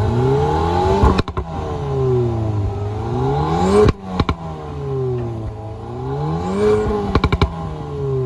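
Audi TT Mk3 engine being revved while standing, rising and falling in pitch three times, with short sharp crackles around the tops of the revs.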